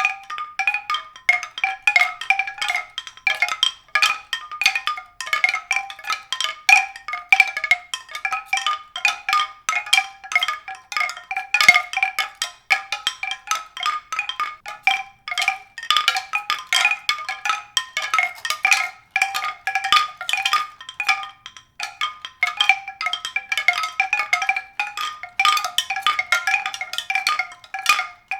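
Pitched percussion struck in a rapid, irregular stream of short ringing notes that keep returning to the same few pitches.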